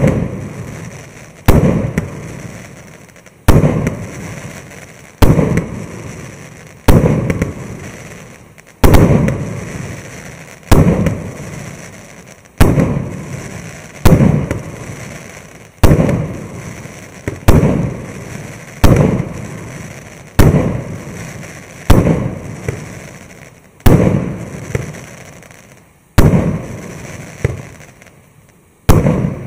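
Consumer firework battery (cake) of 600 shots at 1.2-inch calibre, firing in sequence. Loud shell bursts come about every one and a half to two seconds, each dying away in a fading rumble, with smaller pops and crackles in between.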